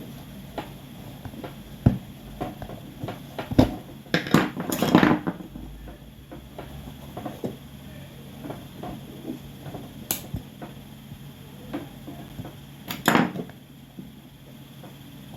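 Handling of shoemaking hand tools during boot resoling: scattered knocks and clicks of tools and the boot against the workbench, with a louder, longer clatter about four seconds in and another near the end, over a faint steady hum.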